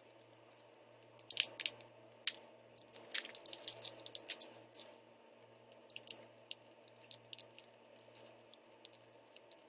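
Plastic sauce packets of Buldak spicy ramen being squeezed out over noodles: irregular crinkling and squishing of the packets, heaviest in the first half.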